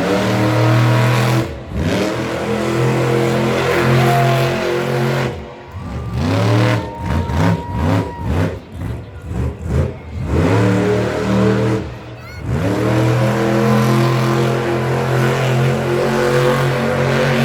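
Monster truck engine revving hard and falling back over and over, with a run of quick short blips of the throttle in the middle.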